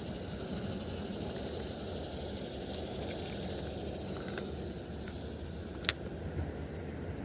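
Steady outdoor rumble and hiss at the river's edge, with a single brief sharp click-like sound about six seconds in.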